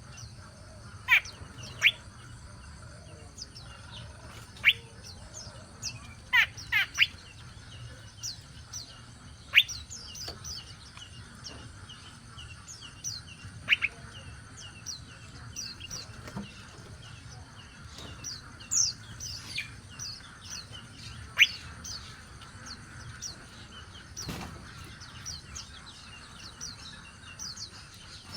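Birds chirping. A steady run of short, high chirps is broken every second or two by louder, sharp downward-sweeping calls.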